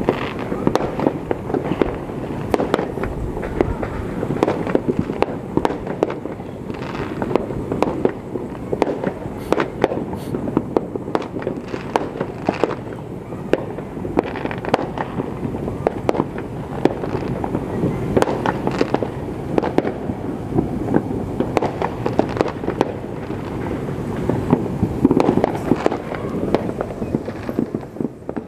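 Many fireworks and firecrackers going off at once, a dense, unbroken crackle of overlapping bangs that drops away near the end.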